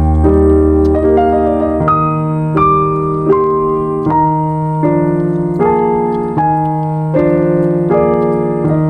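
Slow, calm piano music: a melody of single notes, one about every three-quarters of a second, over sustained low chords.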